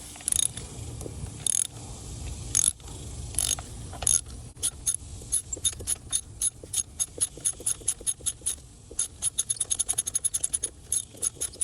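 3/8-inch drive socket ratchet clicking as it unscrews a spark plug: a few slow clicks on the first back-strokes, then a fast run of clicks from about four seconds in, quickening near the end as the plug loosens.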